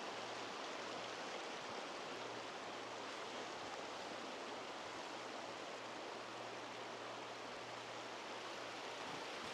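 Flowing water rushing steadily, as from a stream.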